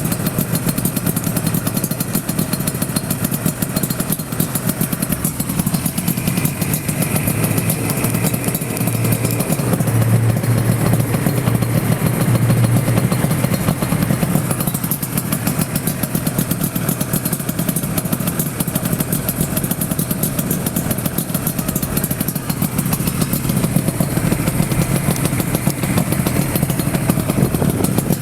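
Yamaha RZ250 with an RZ350 liquid-cooled two-stroke parallel-twin engine, running steadily through an AREA47 expansion-chamber exhaust, a little louder around ten to thirteen seconds in.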